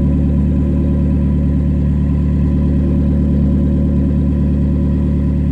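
2020 Toyota Corolla LE's 1.8-litre four-cylinder engine idling at a steady speed through a straight-piped exhaust, still warming up after a cold start.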